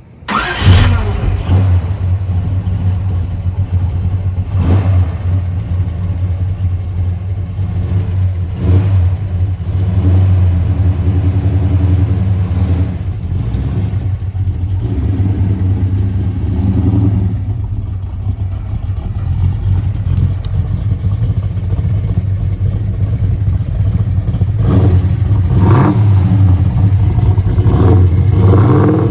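1970 Chevelle's engine starting with a sudden loud catch, then running with a steady low rumble and a few brief revs.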